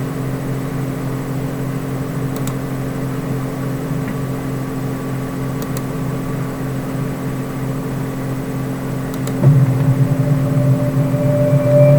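A steady low hum with two constant tones. About nine and a half seconds in, a louder sound with held tones comes in on top of it.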